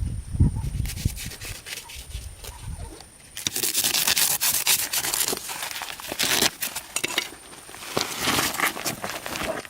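Hand construction work: a few low thumps, then from about three and a half seconds in a dense, continuous rasping and scraping, like rubbing or sawing.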